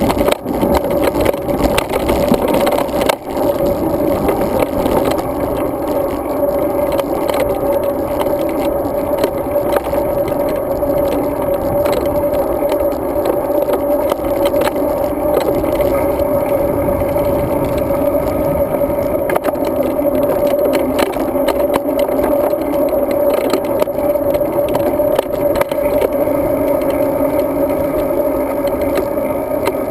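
Steady rush and road noise while riding a road bike, with a constant hum and many small rattles and clicks from road vibration shaking the GoPro camera housing.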